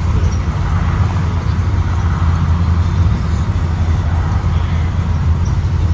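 Steady low engine and road rumble of a 2023 Blue Bird Vision school bus under way.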